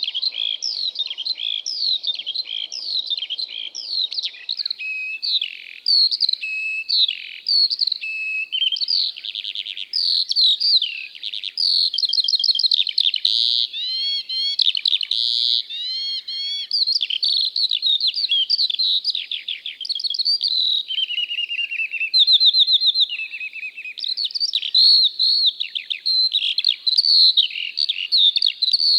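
Skylark song: an unbroken, rapid stream of high chirps, trills and warbled notes that runs on without a pause.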